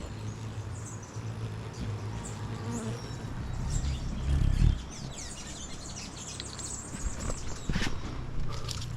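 Hummingbirds hovering at sugar-water feeders, their wings humming low and steadily, with a louder whir as one passes close just before five seconds in. Thin high chirps and quick falling squeaks come in from about five seconds on.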